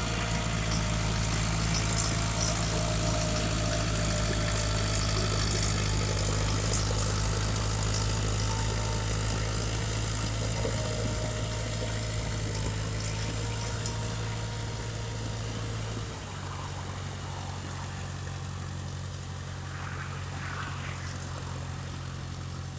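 Massey Ferguson 290 tractor's four-cylinder diesel engine running steadily while rotavating a paddy field. About 16 seconds in, its note drops and it gets quieter.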